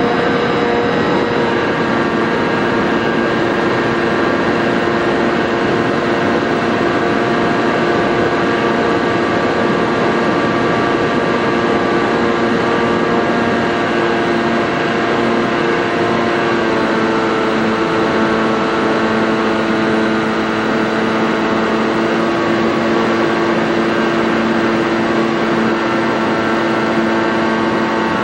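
Model airplane's motor and propeller running steadily at cruise with a droning whine over rushing air, the pitch dropping a little about two-thirds of the way through as the throttle eases.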